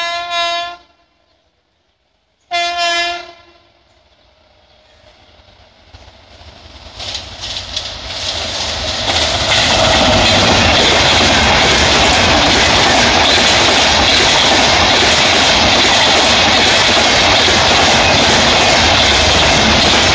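WAP-7 electric locomotive's air horn sounding two short blasts, then the express approaching with a rising rush that becomes a loud steady roar of the train passing at about 120 km/h. Wheels click rapidly over the rail joints as the coaches go by.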